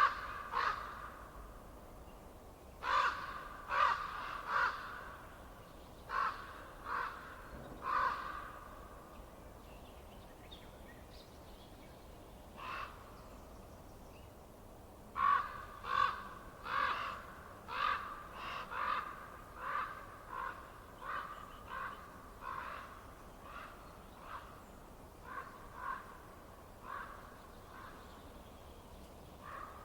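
Harsh, repeated bird calls, caw-like, about twenty short calls in loose runs with a pause of several seconds after the first few runs, over a faint steady hiss.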